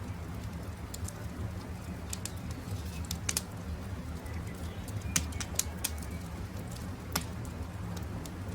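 Wood campfire crackling, with a handful of sharp, irregular pops over a steady low rumble of the burning fire.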